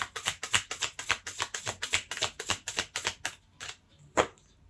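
Tarot card deck being shuffled by hand: quick, even card slaps at about nine a second that stop about three seconds in, then a single sharper snap of a card about a second later.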